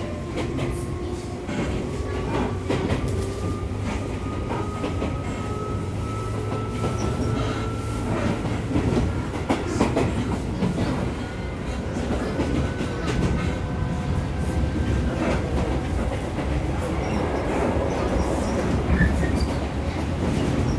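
Interior running sound of a Tobu 8000 series electric train: the traction motor whine rises slowly in pitch for about fifteen seconds as the train picks up speed, then fades, over a steady low rumble. The wheels clack over rail joints throughout.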